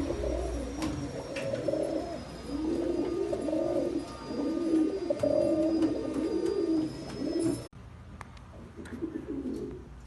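Pigeons cooing, several low, rolling coos overlapping one another. The sound drops off suddenly about three-quarters of the way through, and one fainter coo follows.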